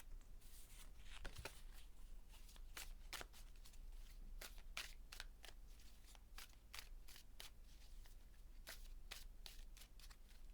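Tarot deck being shuffled and handled by hand: faint, irregular card flicks and slides, a few a second.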